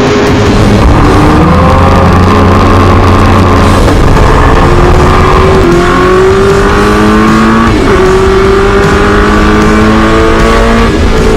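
Racing V8 engine of a historic muscle car at full throttle. Its pitch climbs through each gear and drops at an upshift roughly every three to four seconds.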